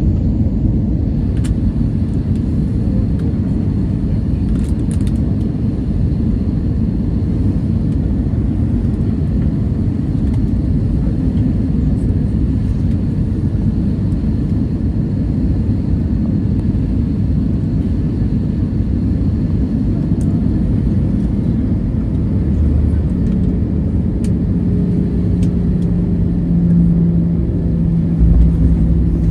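Cabin noise inside an Airbus A320-214 in motion: the steady low rumble of its CFM56 engines and the airflow, with a few faint clicks. A steady hum joins in about three quarters of the way through, and the rumble grows a little louder near the end.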